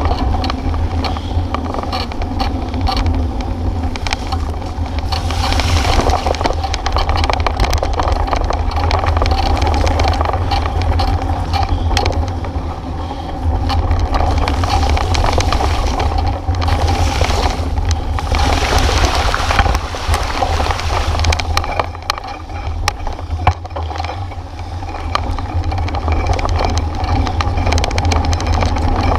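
Wind rumbling on the microphone of a moving bicycle, with frequent small rattles and knocks from the bike riding over a rough road.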